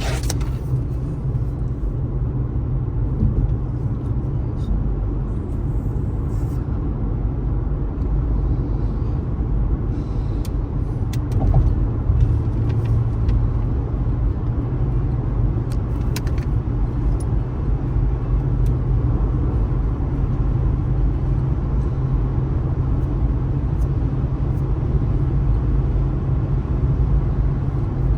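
Car driving on a highway: steady low rumble of tyre, road and engine noise, with a few brief faint clicks.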